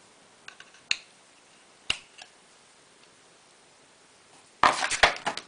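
Hard plastic clicks and rattling from a mini vacuum cleaner's parts being handled and the brush attachment fitted: a few sharp single clicks in the first two seconds, then a quick cluster of louder clicks and rattling near the end.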